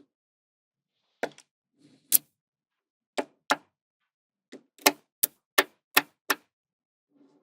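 Small magnetic balls snapping onto one another one at a time: about ten sharp clicks, coming closer together in the second half.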